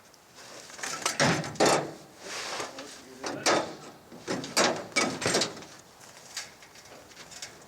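Luggage being handled while unpacking: a quick run of short scraping, sliding and rustling noises, fading out after about five seconds.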